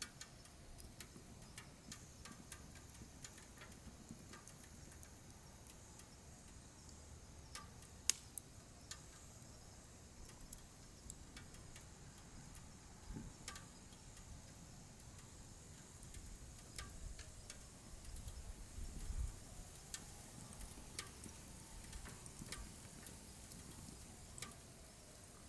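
Firewood burning with irregular sharp crackles and pops, one louder snap about eight seconds in, over a faint low rumble of the flames that swells in the later part.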